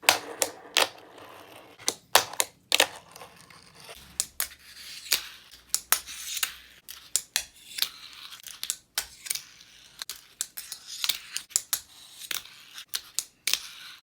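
Wooden fingerboard being handled, giving sharp, irregular clicks and clacks, several a second, over a faint hiss.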